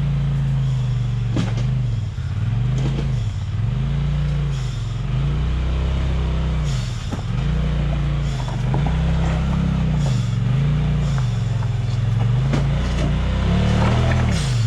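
Off-road vehicle engine revved up and down over and over, roughly once every second or so, as it tries to climb a steep obstacle. A few sharp knocks are heard along the way.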